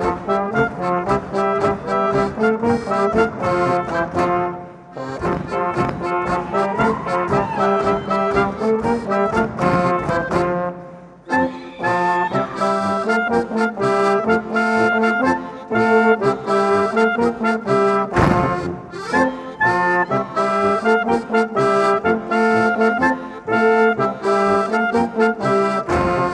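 Lively folk music played on brass and accordion with a steady, even beat, briefly dropping away about five seconds in and again about eleven seconds in.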